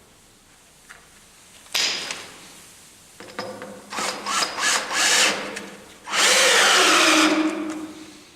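Cordless drill-driver run in short stop-start bursts and then held on, its motor pitch sagging under a heavy load. It is straining and hopelessly overloaded by the job.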